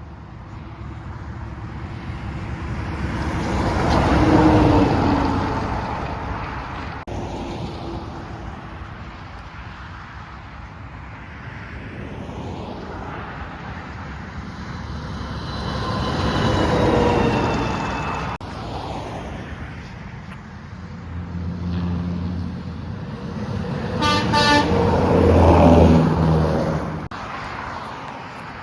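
Semi trucks and other traffic passing one after another, each pass swelling and fading. Near the end a truck sounds its horn, a low held blast with a quick run of short toots in the middle.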